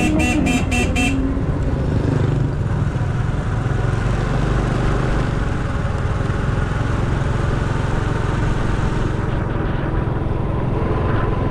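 Motorcycle riding along the road, engine and wind noise a steady low rumble. A vehicle horn gives five short, quick beeps in the first second.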